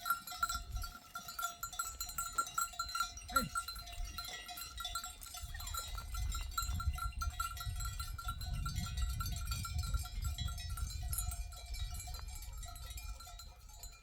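Livestock bells on grazing sheep clanking continuously, a steady jingling ring, with a few sheep bleats in the first half. A low rumble builds from about halfway through.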